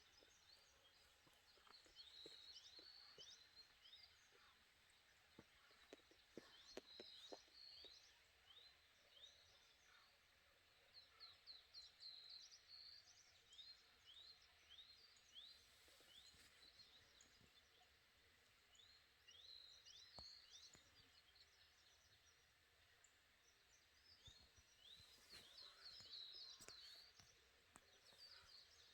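Faint wild birdsong: series of quick downward-sliding chirps, coming and going, with a short cluster of soft clicks about six or seven seconds in.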